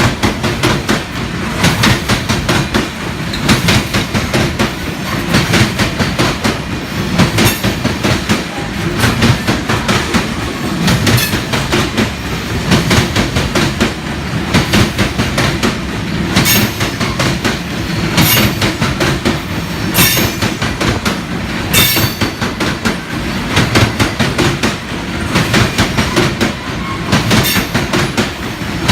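Freight cars of a Union Pacific gravel train rolling past with a steady clickety-clack of wheels over rail joints. Louder, sharper metallic strikes stand out every few seconds.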